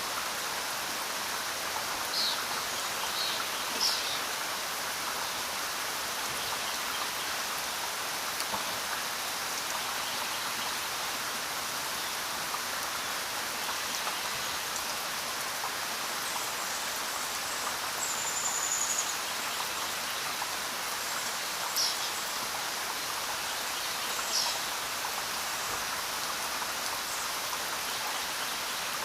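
Steady rain falling, an even hiss of many drops. A few brief high chirps sound now and then.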